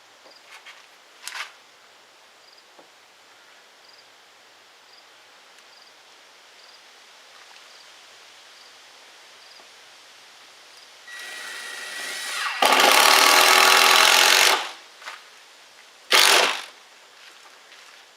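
Cordless drill driving a long screw into a wooden frame board: the motor starts slowly, runs at full speed for about two seconds, then gives one short final burst to seat the screw.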